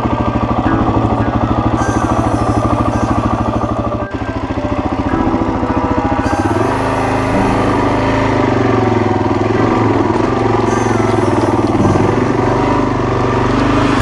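Suzuki DR-Z400's single-cylinder four-stroke engine running slowly with distinct, evenly spaced firing pulses. About halfway through it picks up to a higher, steadier engine note that shifts pitch a couple of times as the bike rides along a rocky dirt trail.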